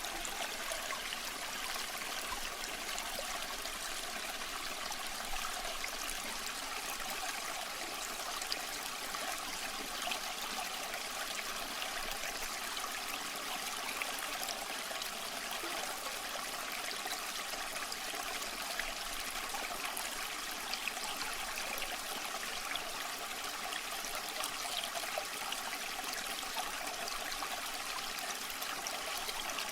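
Small stream of water running steadily over stones, a continuous rushing trickle with small splashes.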